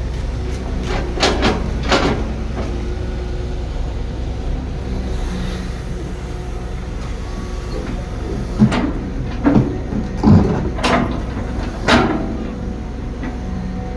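Heavy construction machine's engine running steadily, with a series of loud clunks and bangs: two close together about a second in, then several more in quick succession in the second half.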